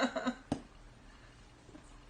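A single sharp click, a jigsaw puzzle piece being set down on the puzzle, then quiet room tone.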